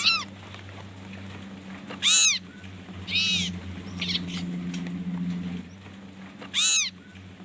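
Sirtu birds giving about five harsh, high calls, each rising and then falling in pitch, with the loudest two about two seconds in and near the end, over a steady low hum.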